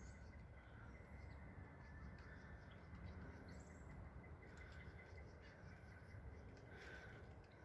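Faint songbirds chirping and calling from some distance, many short scattered chirps over a steady low rumble of background noise.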